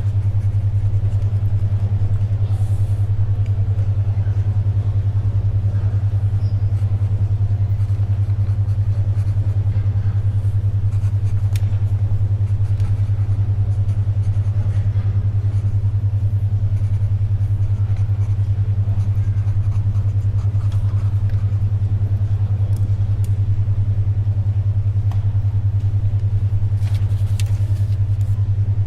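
A steady low electronic tone pulsing about ten times a second, the 10.2 Hz alpha brainwave track, over faint library ambience with paper rustling and pencil writing; a page rustles about two seconds in and again near the end.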